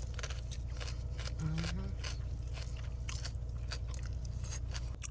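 Close-up chewing of a mouthful of vegetables (cabbage, zucchini, broccoli), with many small crisp crunches, over a steady low hum.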